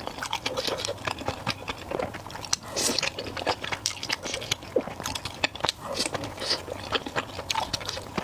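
A person biting and chewing food, with frequent irregular crisp crunching and crackling clicks.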